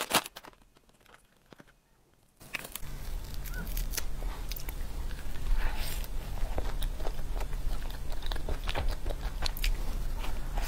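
Close-miked biting and chewing of a chocolate-coated cream puff with a crunchy topping: soft, wet chewing with small crunches and crackles. It starts about two seconds in, after near silence.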